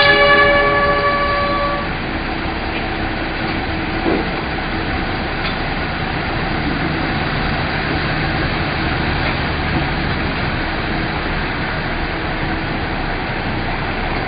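A train horn chord dies away in the first two seconds, followed by the steady running noise of a passenger train moving along the track.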